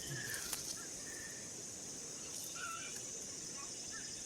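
Insects chirring steadily in a high-pitched band, with a few brief higher chirps over it and a low rumble of wind on the microphone.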